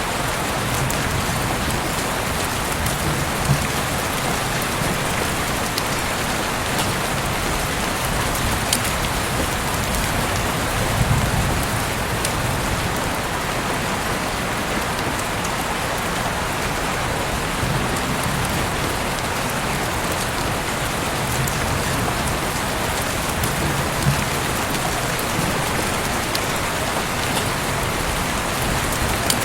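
Heavy rain falling steadily through an open window, an even hiss with scattered sharp drips. A few brief low rumbles swell and fade, about 3, 11 and 24 seconds in.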